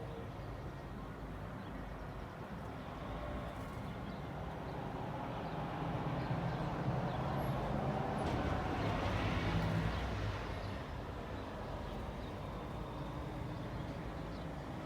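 A car driving past on a street: its engine and tyre noise build over a few seconds, are loudest a little past the middle, then fade away, over a steady background hum of traffic.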